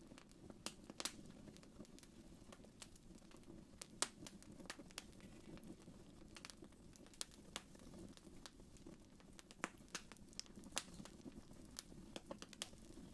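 Wood fire crackling: irregular faint pops and snaps over a low steady rumble, with the sharpest pop about four seconds in.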